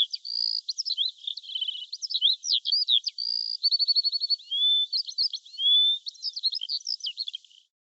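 A small songbird singing a rapid, varied, high-pitched song of chirps, short whistles and quick trills, stopping shortly before the end.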